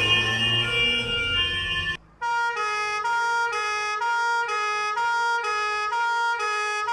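Two emergency-vehicle sirens in turn. First a stepping siren with road rumble underneath, which cuts off about two seconds in. After a brief gap comes a clean two-tone siren switching between two pitches about every half second.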